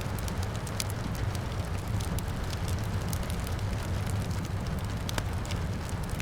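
Wood fire crackling and popping in a fireplace, many small sharp snaps over a steady low rumble, with rain falling outside.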